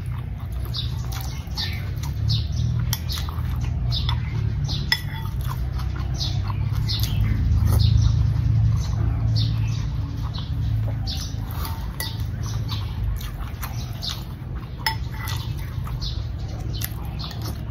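Close-up chewing and wet mouth clicks of someone eating, with many short smacks and an occasional clink of a metal spoon against a glass bowl.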